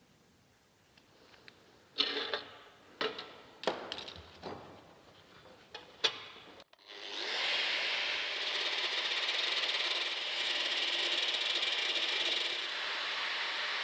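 Workshop handling noises: several sharp knocks and scrapes of parts being moved and set down. Then, after an abrupt break, a power tool starts and runs steadily with a hissing whir.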